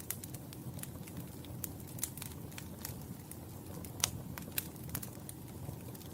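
Wood fire in a fireplace crackling, with irregular sharp pops and snaps over a low steady rumble of the flames; the loudest pop comes about four seconds in.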